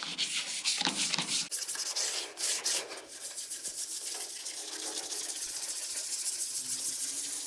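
A toothbrush scrubbing toothpaste in small circles on a plastic truck taillight lens: a steady, rapid scratchy rubbing, polishing the oxidised haze off the fogged lens.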